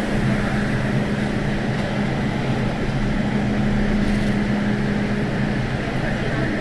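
MTR M-Train electric multiple unit running steadily along the line: a continuous rumble of wheels on rail with a steady low hum.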